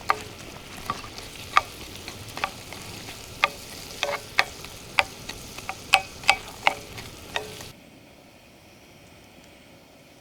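Food sizzling while cooking over a campfire, a steady hiss with about a dozen sharp pops and crackles. About three-quarters of the way in it drops suddenly to a quieter hiss.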